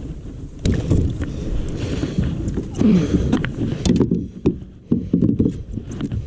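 Handling noise aboard a fishing kayak: irregular bumps, clicks and rustling against the hull, loudest from about a second in.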